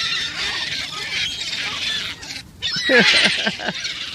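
A flock of birds calling and squawking all at once, a dense chatter of many overlapping calls, growing louder about three seconds in.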